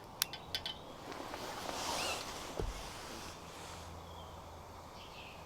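Wood fire and embers crackling, with a few sharp pops near the start, then a soft hiss.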